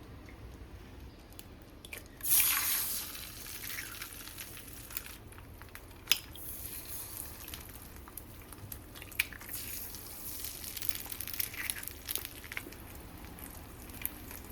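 Quiet household handling sounds: a short hissing burst about two seconds in that fades over a second, then scattered light clicks and taps.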